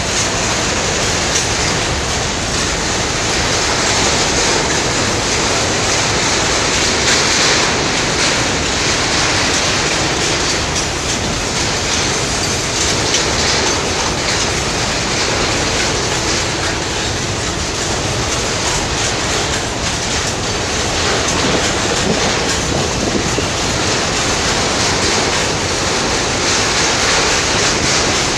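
Freight train's open-top wagons rolling past at close range: a steady clatter of steel wheels over the rail joints.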